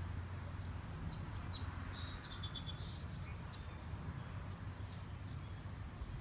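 Small birds chirping, a handful of short high calls between about one and four seconds in, over a steady low background hum.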